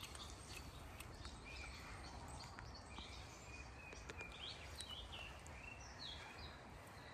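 Faint birdsong: scattered short, high chirps and whistles over a low, steady background rumble.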